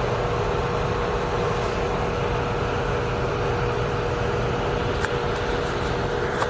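John Deere 250G excavator's diesel engine running steadily with a constant whine, and a single faint click about five seconds in.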